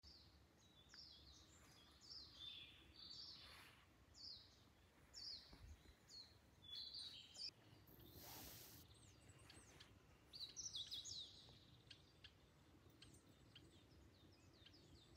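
Wild birds singing: faint, repeated short, high chirps and trills, with a brief rush of noise about eight seconds in.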